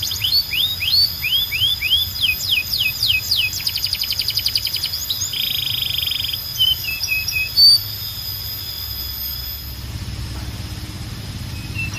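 Canary singing: a series of quick falling whistled notes and rapid trills, a short buzzy phrase about halfway, then softer, scattered notes in the second half.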